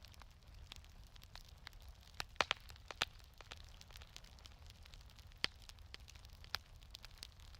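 Wood fire in a fireplace crackling, with a cluster of sharp pops about two to three seconds in and two more single pops later, over a low steady rumble.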